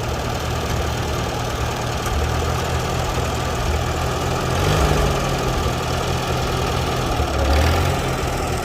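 Vintage vehicle's engine idling steadily, swelling briefly twice, about five and about eight seconds in.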